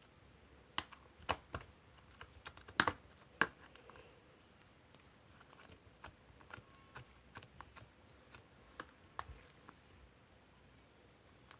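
Irregular light clicks and taps like typing, a quick run in the first few seconds, then sparser clicks.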